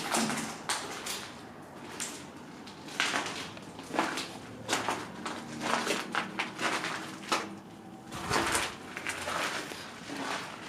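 Irregular knocks, crunches and scrapes, as of someone walking over and disturbing debris, busiest in the middle of the stretch.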